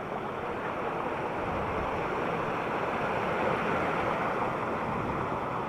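Steady rushing noise of a waterfall tumbling into a deep gorge, swelling slightly partway through.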